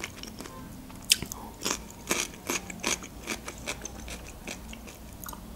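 A fresh cucumber slice bitten and chewed close to the microphone: a sharp crunch about a second in, then a run of crisp chewing crunches about two a second that thin out after about four seconds.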